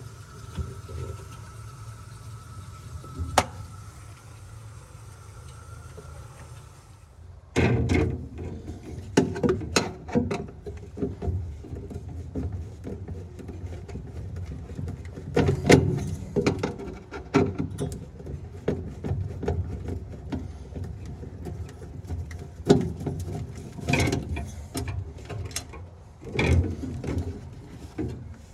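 Hands and tools working to remove the evaporator fan from a commercial glass-door fridge: irregular clicks, knocks and rattles of plastic and metal parts. For the first seven seconds there is only a steady hum with a faint high whine and a single sharp click, then the hum cuts off and the handling noise starts.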